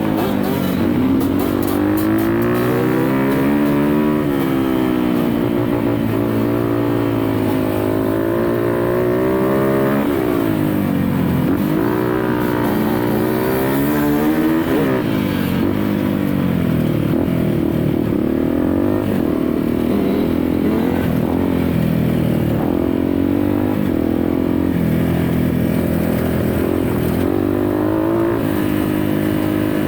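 Dirt bike engine ridden hard, loud and continuous, its pitch climbing and falling again and again as the rider works the throttle.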